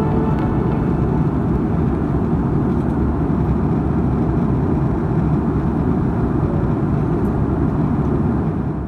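Steady, loud roar of an Airbus A340-300's jet engines and airflow heard from inside the cabin, fading out at the very end.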